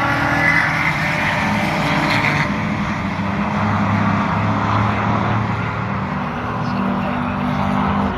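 Racing car engines running hard on the circuit, their notes holding steady and stepping in pitch as the cars pass.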